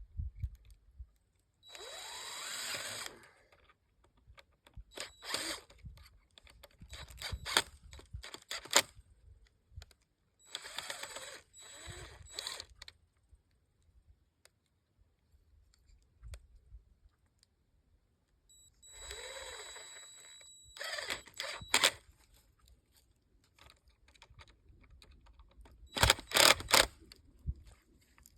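Power drill driving screws into a wooden gate post in three short runs of about a second or two each, the motor's pitch rising as it spins up. Clicks and knocks of handling come between the runs, and a cluster of loud sharp clicks comes near the end.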